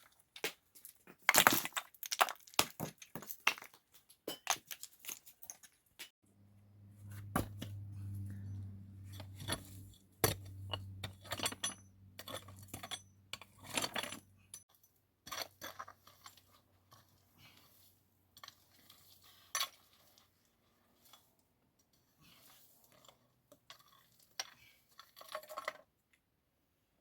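Irregular clinks and knocks of hard objects being handled and set down. A low steady hum joins in for several seconds around the middle.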